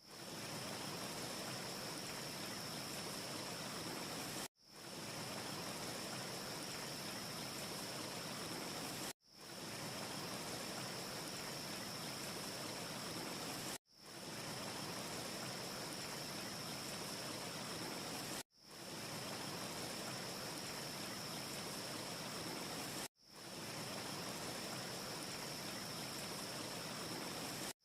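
Steady rushing noise ambience with a faint high hiss, from a short loop that cuts out completely about every four and a half seconds and fades back in. No distinct crackles stand out.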